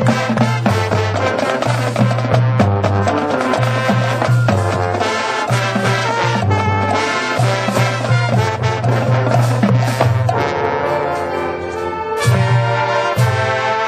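Marching band playing, brass and percussion together, with the low brass sounding heavy bass notes that change every second or so. The music eases slightly just before a louder full-band entry near the end.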